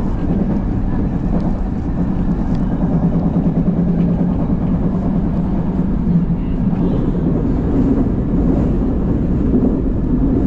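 Odakyu Line commuter train running along the track, a steady rumble of wheels and running gear.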